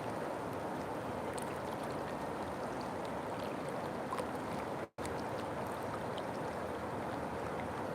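River water flowing in a steady rush. The sound cuts out for an instant about five seconds in.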